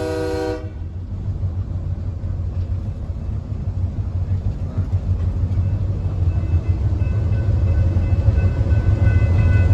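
A train horn blast cuts off about half a second in, followed by the steady low rumble of the train rolling on the rails, growing gradually louder. A faint high whine joins about six seconds in.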